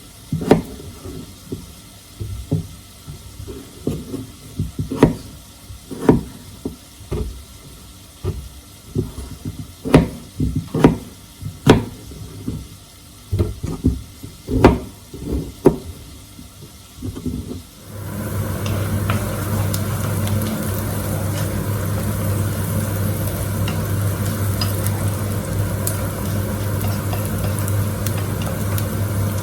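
Irregular clicks and knocks of kitchen utensils and dishes being handled. About eighteen seconds in, an electric kitchen appliance switches on and runs steadily with a low hum.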